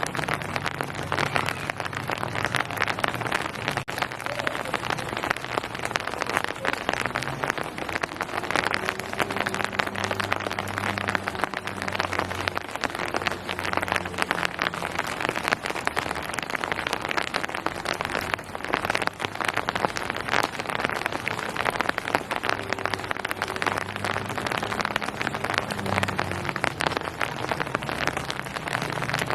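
Steady rain, dense drops pattering on surfaces. A low hum comes and goes underneath.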